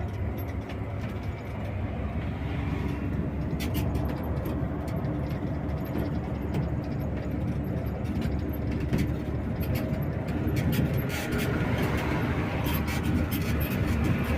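Bus engine running steadily under way, heard from inside the cabin, with a low hum and many short clicks and rattles from the interior from about three seconds in.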